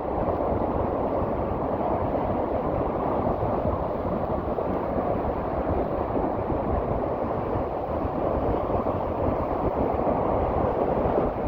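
Rough sea surf crashing on a rocky shore, with strong wind rushing over the microphone: a steady, low, churning roar with no distinct breaks.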